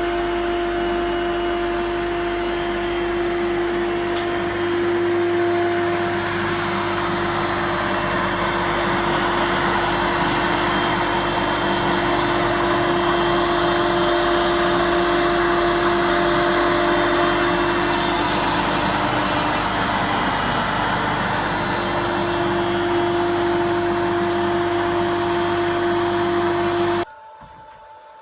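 ShopBot CNC router running: a steady high spindle whine over a loud rush of air, which stops abruptly about a second before the end.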